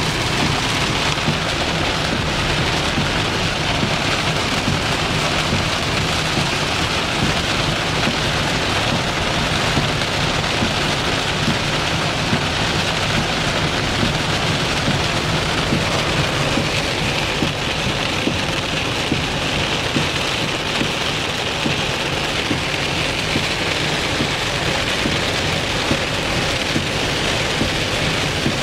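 Heavy rain falling steadily on a hard surface, a dense, loud, unbroken patter.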